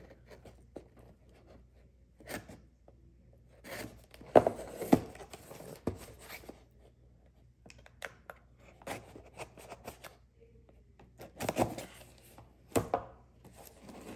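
A small knife blade cutting open a shipping package, in short, irregular scraping and tearing strokes. The strokes are loudest about four to five seconds in and again about twelve seconds in.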